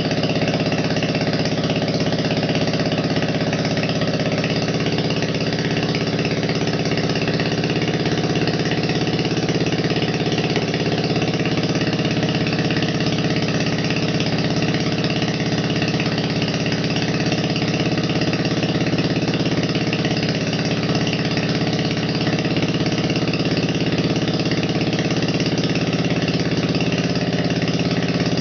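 Briggs & Stratton Model B single-cylinder engine on a homemade walk-behind tractor running steadily at idle, with an even level and no change in speed.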